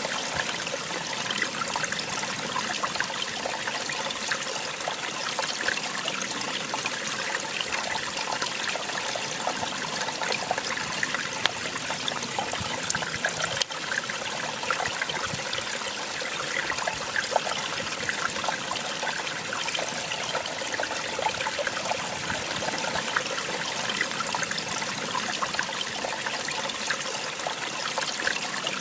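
Small waterfall: water splashing and trickling steadily, a continuous rushing hiss dense with fine splashes.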